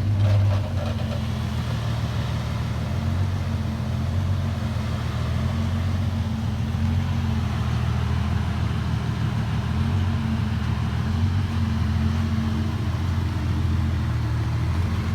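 A truck engine running steadily with a low, even hum.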